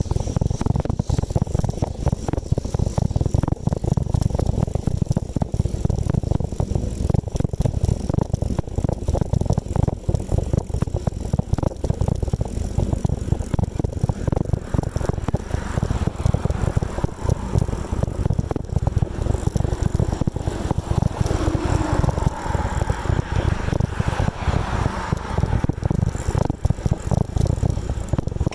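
Wind buffeting the microphone on a moving bicycle, a steady low rush with constant fluttering, mixed with small rattles from the bike over the road.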